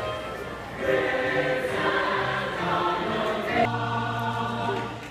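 A choir singing long held chords over a low sustained accompaniment, fading out near the end.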